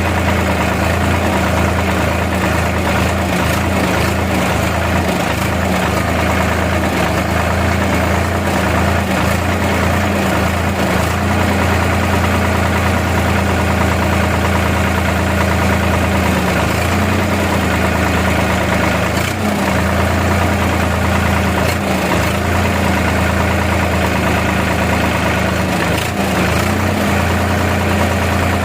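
Tractor engine running steadily at idle, a low even hum with only slight shifts in pitch.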